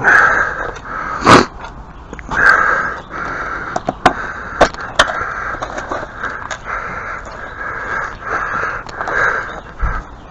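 Crows cawing over and over, harsh calls coming about once a second, with a few sharp knocks in between.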